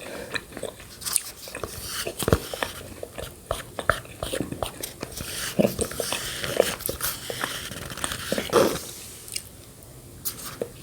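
Close-miked mouth sounds of eating yogurt with shredded coconut: irregular wet chewing, smacks and clicks, thinning out over the last two seconds.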